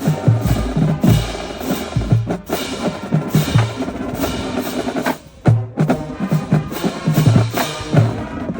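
Marching band playing, with drums and percussion strongly forward and the bass drum hitting a steady beat. There is a brief break about five seconds in before the band comes back in.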